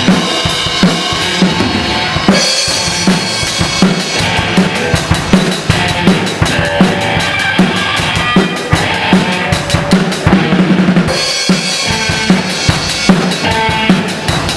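Music driven by a drum kit, with busy bass drum and snare hits over pitched instruments.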